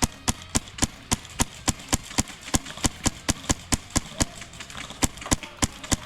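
Quick, even footsteps of a player running on frozen ground, about three to four steps a second.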